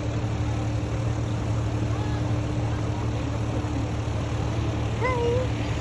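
Steady low mechanical hum, like a motor or engine running, with a short, bending, pitched bird call about five seconds in and fainter calls earlier.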